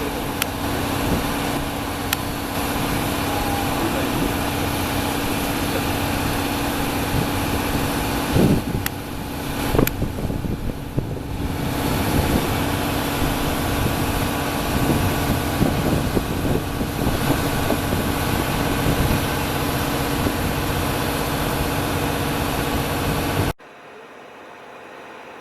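Diesel train engines idling steadily at the platform, a constant hum with a few clicks and knocks. The sound cuts off suddenly near the end, leaving a much quieter background.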